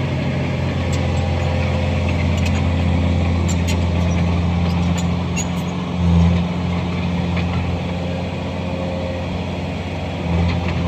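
Komatsu bulldozer's diesel engine running steadily, pulling harder briefly about six seconds in and again near the end, with scattered sharp metallic clanks from the machine as it works.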